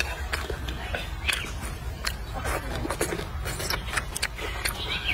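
Close-up chewing of a mouthful of noodles and greens: a run of small wet clicks and smacks from the mouth, over a steady low rumble.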